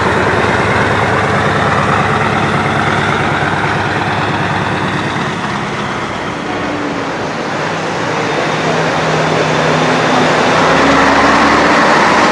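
Heavy trucks' diesel engines running as they drive slowly past. The sound eases a little around the middle, then grows again as another engine comes closer in the second half.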